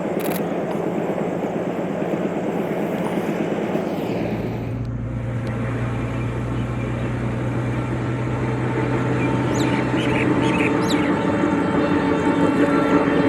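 Metre-gauge diesel train running, with a steady engine hum that comes in about four seconds in and drops away near eleven seconds. A few short high-pitched squeals are heard around ten seconds.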